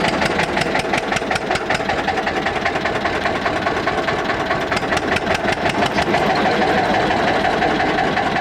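Eicher tractor's air-cooled diesel engine running steadily, its firing beats heard as an even knocking rhythm.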